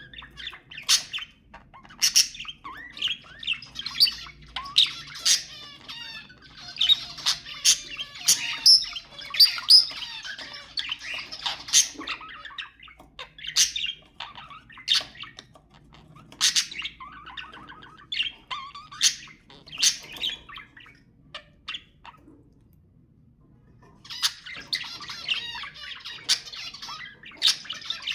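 Budgerigars chattering: rapid warbling mixed with sharp chirps and squawks, dropping off for about two seconds near the end before the warbling resumes.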